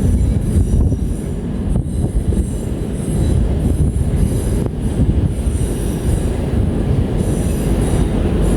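A train moving through the station: a steady low rumble of wheels on rail with a faint high squeal from the wheels.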